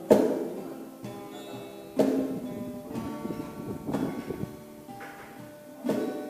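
Acoustic guitar playing: strummed chords at the start, about two seconds in and near the end, with single picked notes ringing between them.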